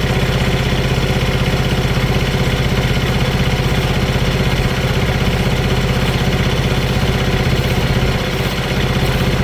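An engine idling steadily with an even, rapid firing beat; the level dips briefly about eight seconds in.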